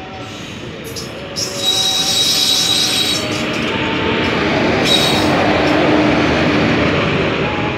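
WAP-4 electric locomotive and its express coaches passing close along the platform at speed: a loud rush and rattle of wheels on rail that swells about a second and a half in and stays loud, with a thin high whine heard at times.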